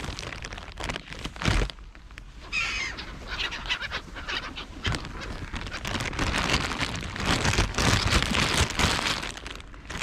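Birds calling, with a clear run of short calls about two and a half seconds in, over steady rustling and handling noise.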